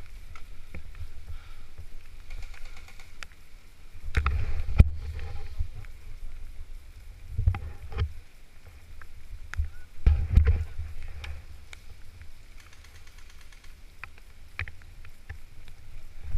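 Rumbling movement and wind noise on a body-worn camera's microphone, swelling in three surges, with scattered single sharp pops.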